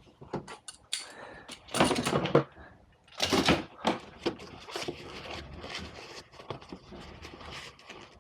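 Handling noises from installation work: a run of small clicks and knocks, two louder scraping rushes about two and three and a half seconds in, then softer rustling and scraping.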